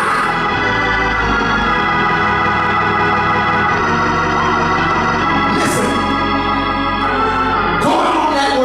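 Organ playing held chords, changing chords a couple of times.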